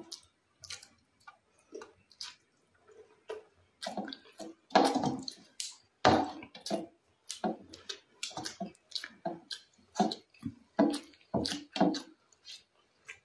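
Close-up eating sounds: chewing and mouth smacks while eating rice with dal and curry, a run of short irregular smacks, with a couple of louder ones in the middle.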